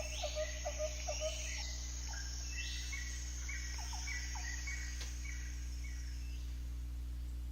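Recorded animal calls played in a wildlife diorama: a quick run of short repeated chirps, about four a second, then scattered bird-like calls that stop about six seconds in, over a steady low hum.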